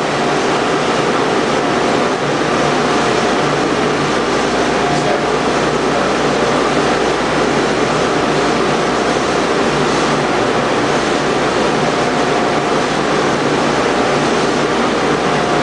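Boiler-room machinery running: a loud, steady roar with faint, even hums running through it.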